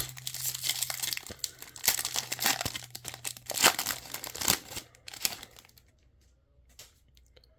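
Foil trading-card pack wrapper being torn and crinkled for about five seconds, then falling quiet.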